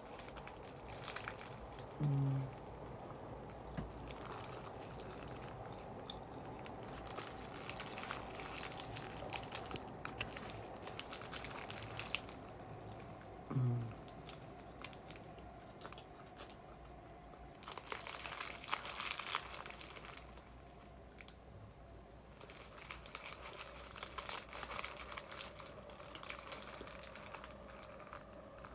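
Close-up eating sounds of a shrimp fillet burger: soft chewing and scattered crinkling of the paper wrapper, busiest about two-thirds of the way through, with two brief hums of the voice.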